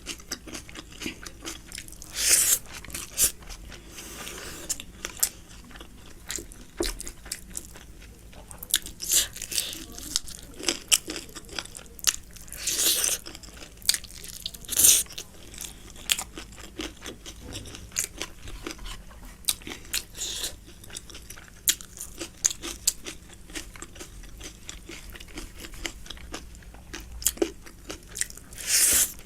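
Close-miked eating sounds: chewing and mouth noises, with a few louder crunchy bites scattered through.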